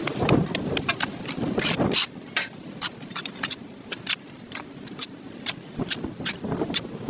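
Repeated scraping strokes of a hand cleaning tool on a dirty concrete sidewalk, about two or three a second, over a low rumble that fades after the first two seconds.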